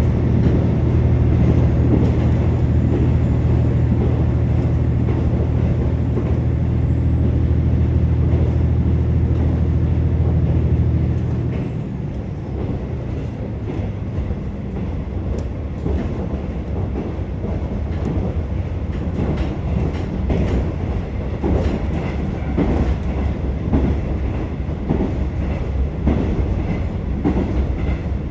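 Inside a KiHa 47 diesel railcar under way: the diesel engine drones steadily under power, then cuts back abruptly about twelve seconds in as the car coasts. After that, wheel-and-rail noise with irregular clicks and clatter from the track is what is left.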